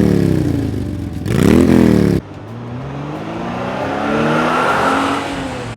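Car engine revving sound effects: two short revs, the second cut off abruptly about two seconds in, then a longer engine note that rises steadily in pitch as it accelerates and stops suddenly near the end.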